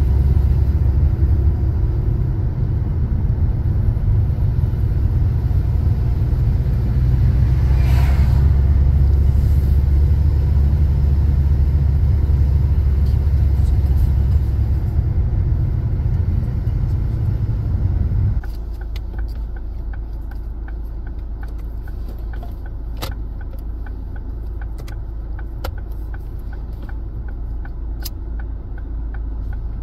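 A car's low engine rumble that cuts off abruptly about two-thirds of the way through, as when the engine is switched off. A quieter hum follows, with scattered small clicks.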